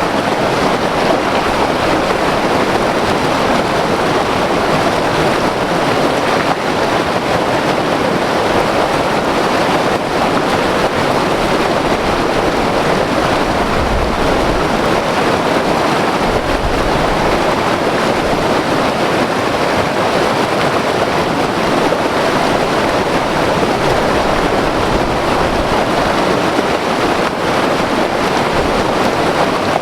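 White-water river flowing fast, a steady dense rush of water.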